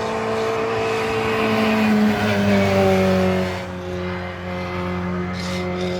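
Historic racing car passing at speed on a hill climb, its engine note loudest about two to three seconds in and then falling in pitch as it goes by.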